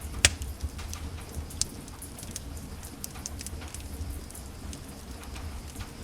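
Wood fire crackling in a fireplace: irregular sharp crackles and pops, the loudest about a quarter second in and another around a second and a half in, over a steady low rumble.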